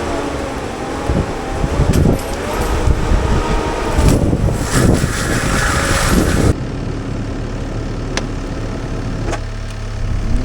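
CAT 299D3 XE compact track loader's diesel engine running under load while its Fecon forestry mulcher head grinds brush, with cracks and knocks of wood being hit. About two-thirds of the way through the sound switches abruptly to a duller, steadier engine hum.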